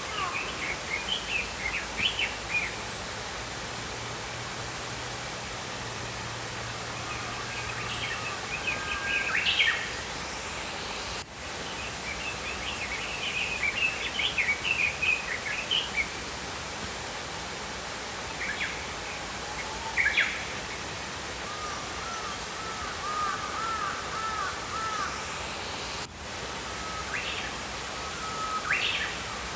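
Small songbirds chirping and twittering in scattered bursts over the steady rush of a flowing stream, with one bird giving a quick run of repeated chirps about two-thirds of the way through.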